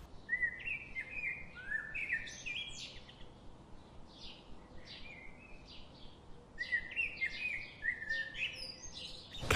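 Bird chirping in two short phrases of quick, high notes, the first in the first few seconds and the second near the end.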